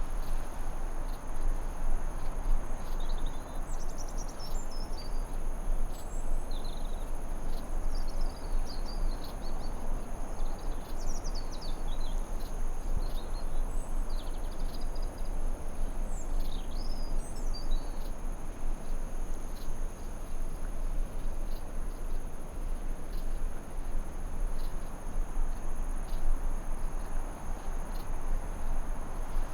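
Forest ambience: a steady high insect trill like crickets over an even rushing noise bed. Birds chirp in short quick phrases through the first half, then stop.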